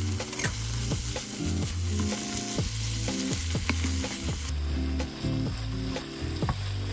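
Kimchi and canned tuna sizzling steadily in a hot pan on high heat, with the scrape and rustle of a wooden spatula stirring the mixture.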